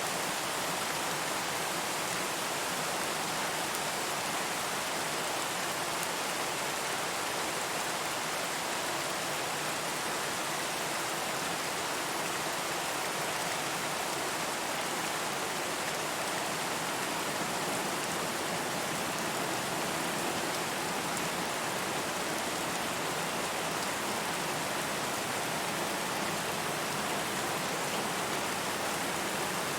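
Steady rain falling: an even, unbroken hiss with no distinct drops or gusts.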